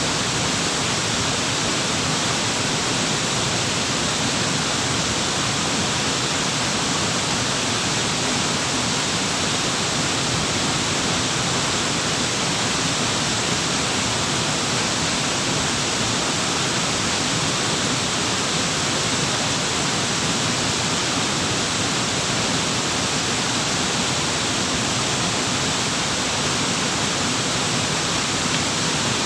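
Waterfall: water pouring and flowing in a steady, unbroken rush.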